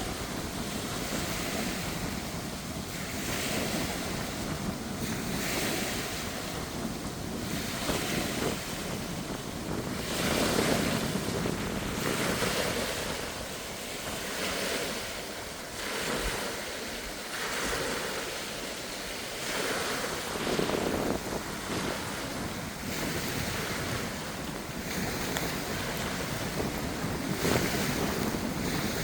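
Strong, gusty wind surging and easing every few seconds, buffeting the microphone.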